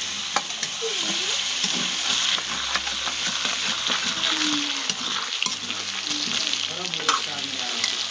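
Mutton pieces sizzling as they fry in a steel wok, with a metal ladle stirring and scraping the pan, giving a few sharp clicks over the steady hiss.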